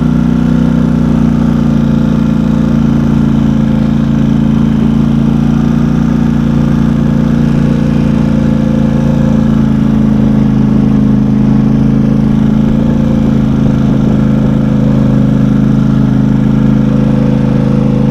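Engine of a small off-road vehicle running at a steady speed, heard from on board as a constant low drone.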